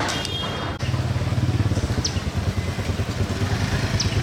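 A small engine running steadily with a fast pulsing hum, which grows louder about a second in. Two short high chirps sound over it.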